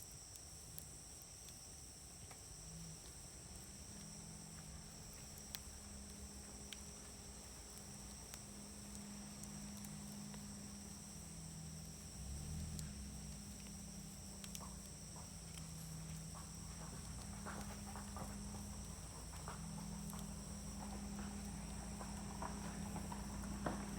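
Wood fire in a fire grill crackling softly, with a sharp pop now and then and denser crackling in the second half. A steady high insect drone runs beneath it.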